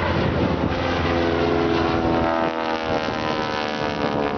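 Aircraft engine drone as a plane flies past, its pitch gradually falling through the second half.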